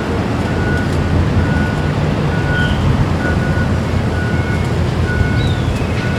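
A steady low rumble with a short, high electronic beep repeating about once a second, like a warning beeper.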